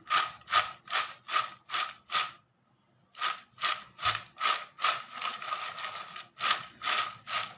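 Freshly fried potato chips being shaken in a bowl to toss them with salt and chilli powder, rattling in even strokes about three times a second, with a short pause about two and a half seconds in before the shaking resumes.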